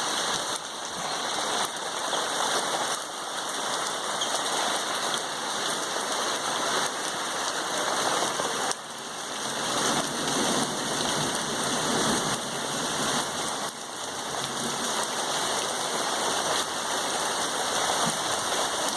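Heavy rain pouring down in large drops, a steady dense hiss of rain on surfaces.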